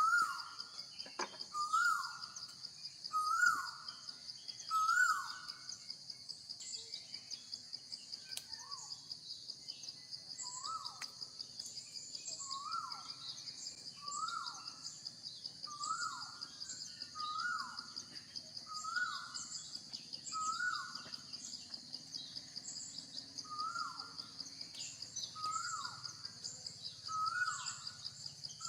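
Outdoor ambience: a steady, high, pulsing insect drone throughout, over a short animal call that drops in pitch, repeated about every one and a half seconds.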